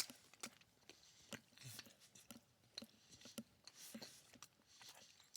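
A person faintly chewing a mouthful of stuffed cheesy bread dipped in marinara, with soft, irregular wet mouth clicks.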